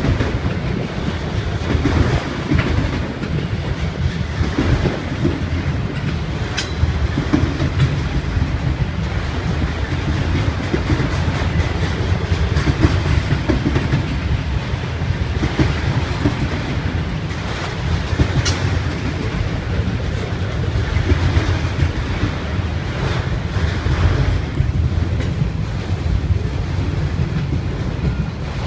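Autorack freight cars rolling past: a steady rumble of steel wheels on rail, with clicking as the wheels cross rail joints and a couple of sharp metallic ticks.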